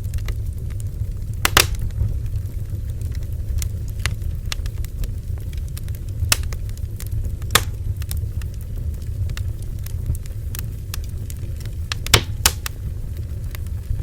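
Bonfire burning with a steady low rumble of flame, broken by sharp crackles and pops of burning wood, louder ones at about a second and a half in, in the middle and near the end.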